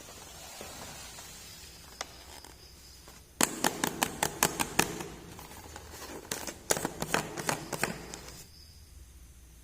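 Small plastic pieces or packaging handled close to the microphone: a single click about two seconds in, then a dense run of sharp crackles and clicks from about three and a half seconds to about eight and a half seconds.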